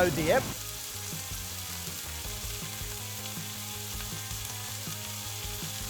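Food frying in hot oil: a steady sizzle, starting about half a second in, with soft background music underneath.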